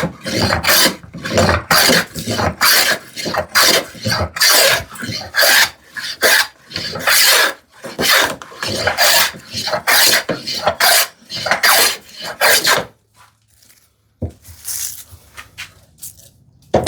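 Hand plane shaving wood in quick, repeated short strokes, about two a second, stopping about 13 seconds in; a few faint scrapes follow.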